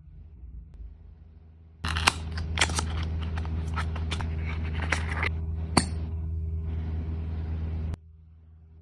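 Cosmetics packaging being handled and opened: a dense run of rustling and sharp clicks that starts abruptly about two seconds in and cuts off suddenly near the end, over a steady low hum.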